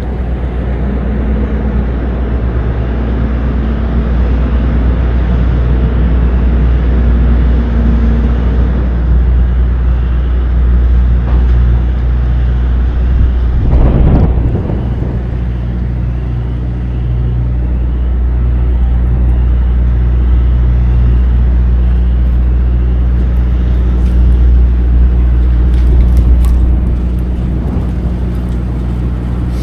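Semi-truck diesel engine and road noise while driving: a steady low rumble whose engine tones shift in pitch now and then, with a single louder bump about halfway through.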